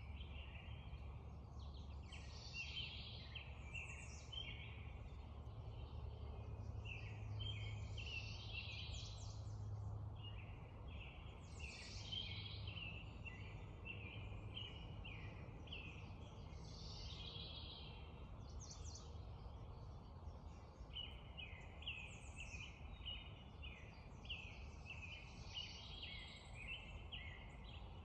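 Spring dawn chorus of many songbirds: overlapping chirps and trills, continuous and dense, over a steady low rumble.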